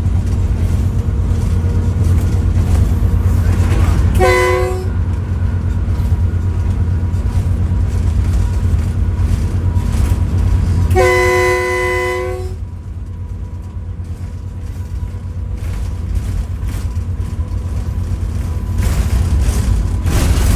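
American-built diesel locomotive's horn sounding two blasts, a short one about four seconds in and a longer one of about a second and a half near the middle, over the steady low rumble of the moving train.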